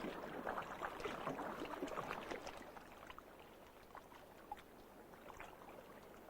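Water surging and bubbling, with many small pops and crackles. It is louder for the first two seconds or so, then fades to a low wash.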